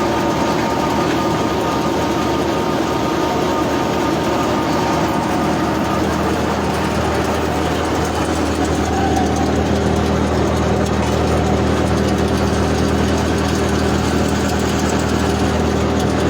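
Wheat thresher running steadily, a loud continuous mechanical drone with a steady hum; its tone shifts about six seconds in, with a stronger low hum after that.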